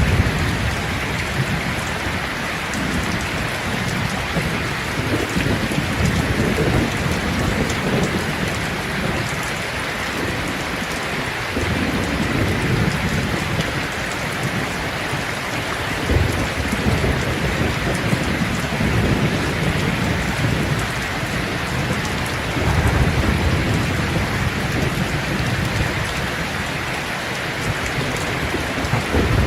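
Steady heavy rain falling, an even hiss throughout, with a low rumble that swells and fades every few seconds underneath.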